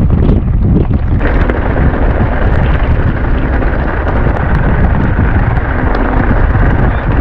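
Strong wind buffeting the microphone: a loud, continuous low rumble. About a second in, a steadier higher hiss joins it.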